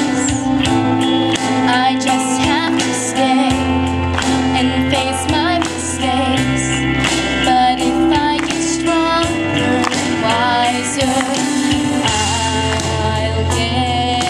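A girl singing a pop ballad over a recorded backing track with steady bass and chords, her voice gliding through long held and decorated notes.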